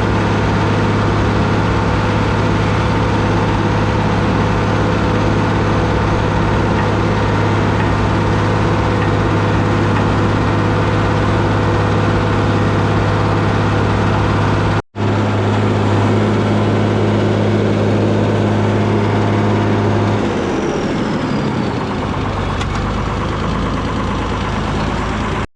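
Deutz D130 06 tractor's air-cooled six-cylinder diesel running steadily at working speed, with a brief break in the sound about fifteen seconds in. About twenty seconds in, the engine is throttled back and its pitch falls.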